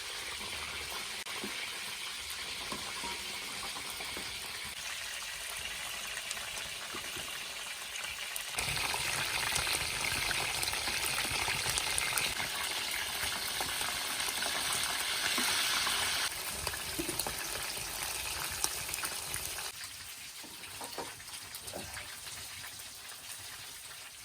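Kebab meat sizzling over a wood fire: a steady hiss that steps louder about a third of the way in and drops back in the last few seconds, with a few faint crackles near the end.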